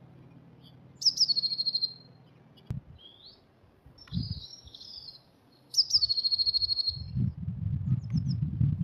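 A blue tit sings twice: thin high notes dropping into a fast trill, with short high calls between the two songs. Low rustling and bumping close to the microphone come between the songs and after the second one, from nesting material being worked in the nest box.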